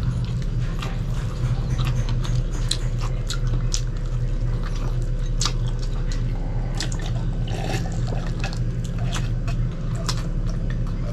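Close-up eating sounds: wet chewing and lip-smacking of grilled chicken, many short clicks and smacks, with sips and swallows of juice from a glass, over a steady low hum.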